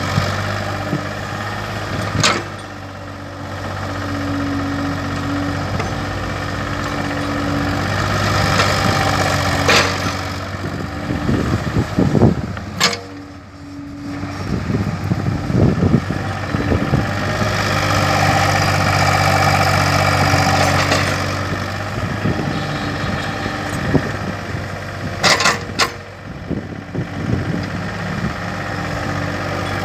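Kobelco hydraulic excavator's diesel engine running, its note rising and falling as it works the hydraulics, with a few sharp clanks along the way.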